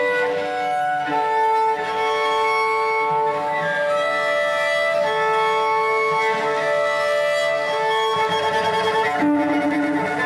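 Slow music on a bowed cello, long sustained notes that change pitch every second or two.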